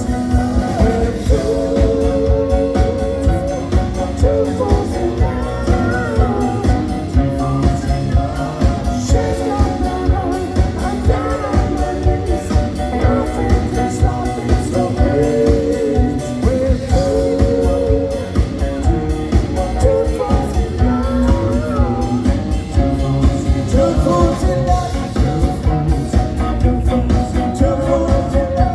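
Rock and roll band playing, with a lead singer over guitar and a steady drum beat.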